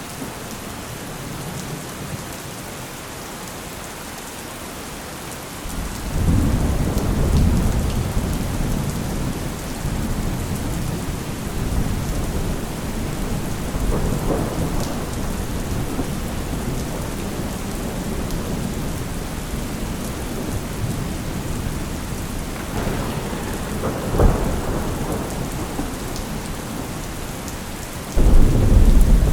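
Steady rain falling, with thunder: a long low rumble about six seconds in, a sharp crack later on, and a loud peal near the end.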